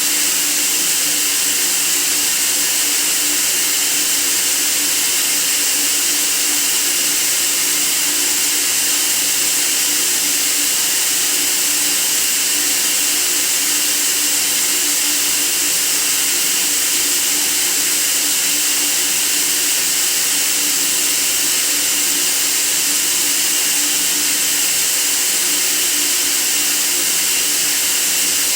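Steady white noise played for sleep: an even, unchanging hiss, brightest in the treble.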